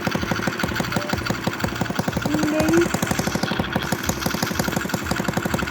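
Motorcycle engine idling with a steady, rapid pulsing beat.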